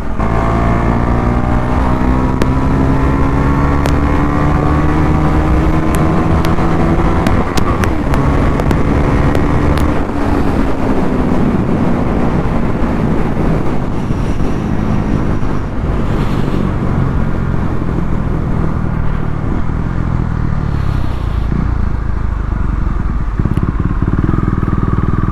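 KTM Duke 390's single-cylinder engine under way, its pitch climbing steadily over the first several seconds as the bike accelerates. It eases off about ten seconds in, then runs on at a steadier, lower note.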